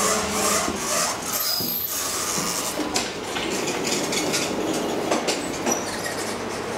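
A train running through the railway station, its wheels clattering on the rails.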